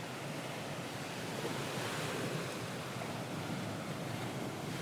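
Recorded ocean waves washing on a shore: a steady surf hiss that swells gently and eases off.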